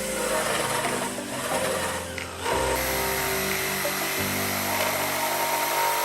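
A small power tool running steadily with a high, drill-like whine, over background music.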